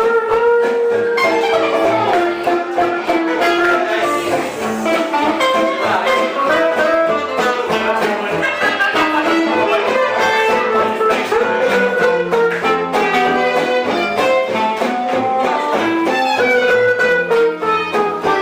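A live band playing gypsy-style music, with guitars and a melody instrument over a steady strummed rhythm.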